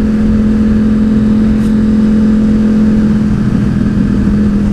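Yamaha WR450 supermoto's single-cylinder four-stroke engine running at a steady cruise while riding, a constant even drone over a rush of wind and road noise.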